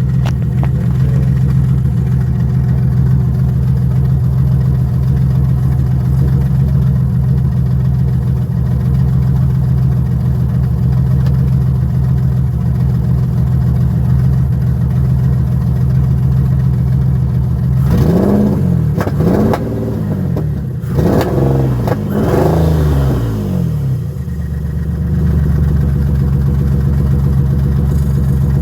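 Turbocharged Infiniti G35's 3.5-litre V6 idling steadily, then blipped four times in quick succession about eighteen seconds in, each rev rising and falling back to idle.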